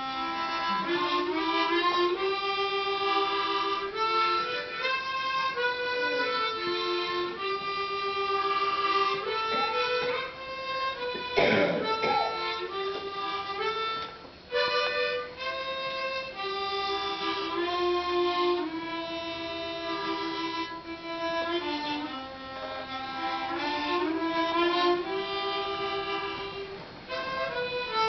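Solo harmonica playing a slow melody of held notes. About eleven seconds in a sudden loud noise cuts across the playing, and a few seconds later the playing stops briefly before going on.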